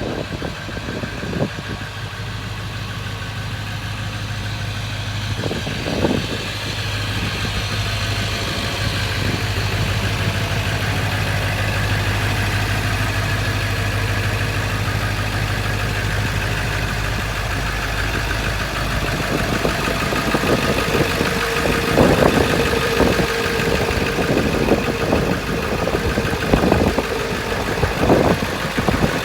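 Ford Excursion's 7.3 L V8 turbo diesel engine running steadily, exhaust without catalytic converters. A few sharp knocks come through, once near the start, about six seconds in, and several times in the last seven seconds.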